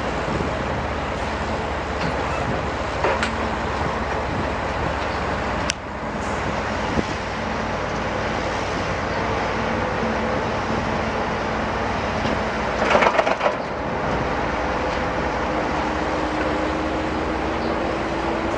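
Heavy diesel construction machinery running steadily, with a sharp click about six seconds in and a short, loud burst about thirteen seconds in.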